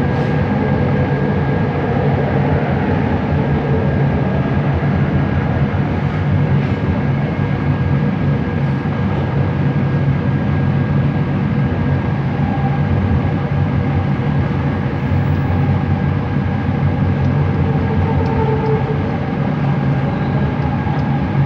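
Bombardier Innovia ART 200 metro train running, heard from inside the car: a steady rumble with a constant high-pitched whine over it.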